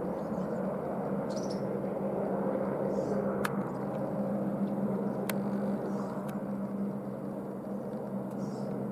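Distant helicopter running, a steady hum with a constant low tone, with faint bird chirps and a few sharp clicks.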